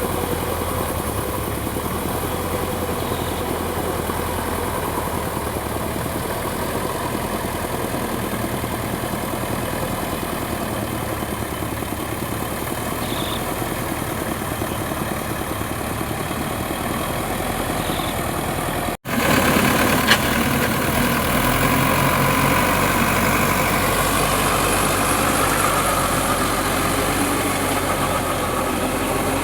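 Sonalika DI 750 tractor's diesel engine running steadily. The sound breaks off for an instant about two-thirds of the way in, then carries on a little louder.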